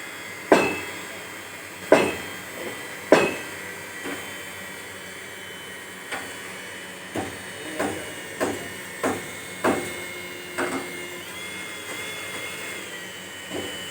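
Hammering on a building site: three loud strikes in the first few seconds, then a run of lighter, irregular knocks, over a steady high-pitched whine that steps up in pitch near the end.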